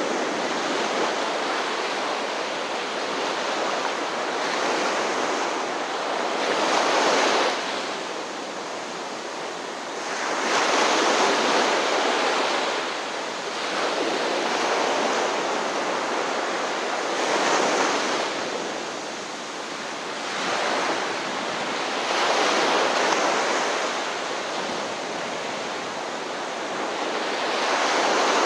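Ocean surf: waves breaking and washing ashore in a steady rush that swells and ebbs about every five seconds.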